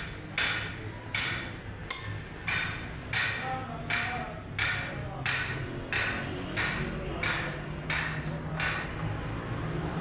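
Old National single-cylinder 22 hp engine running slowly, its exhaust banging about once every two-thirds of a second over a low steady hum. The bangs stop about nine seconds in, leaving the hum.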